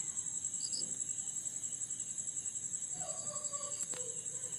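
Insects chirping steadily in a high, rapidly pulsing trill.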